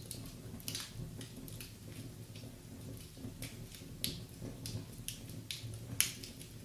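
Wood fire crackling in a fireplace: irregular sharp pops and snaps over a low steady rumble of the flames, with the loudest pop about six seconds in.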